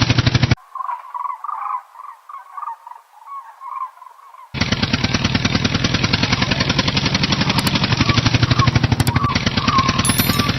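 Tractor engine sound effect running with a fast, even putt-putt. It cuts off abruptly about half a second in, giving way to a thin, patchy chirping for about four seconds. The engine then starts again just as abruptly.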